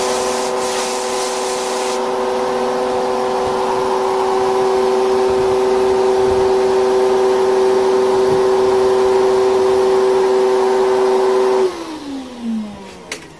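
Electric power tool working on steel, its motor running at a steady high speed with a gritty hiss, then switched off about twelve seconds in and spinning down with a falling whine. A short sharp click follows near the end.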